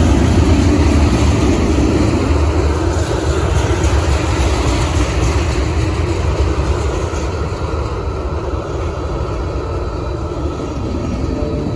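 A CSX train rolling past, a steady, loud rumble of wheels and cars on the rails that eases a little in the second half.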